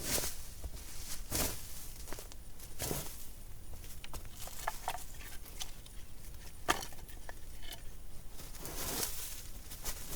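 Rustling with scattered light cracks and snaps from twigs and sticks being handled at a newly lit campfire, with one sharper crack about two-thirds of the way through.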